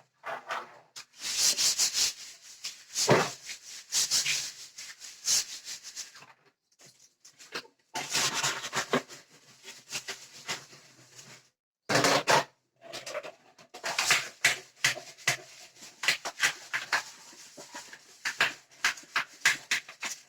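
Birdcage parts being scrubbed in a soapy bleach wash: irregular rubbing and scraping strokes, with a couple of short pauses.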